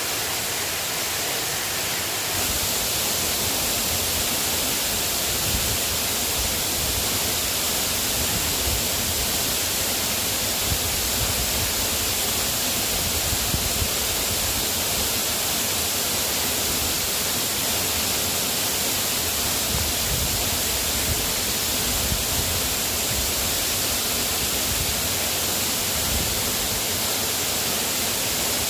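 Steady hiss of light rain, with a few faint taps scattered through it.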